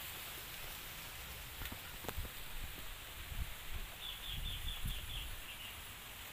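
Outdoor ambience with low wind and handling rumble on the microphone and a few soft knocks; about four seconds in, a bird gives a quick run of about six short high chirps, followed by two fainter ones.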